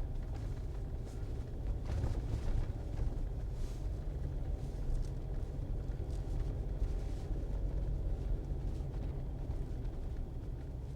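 Steady low rumble of a soft-top Jeep driving on snowy roads, heard inside the cabin: engine and tyre noise, with a few faint brief hisses.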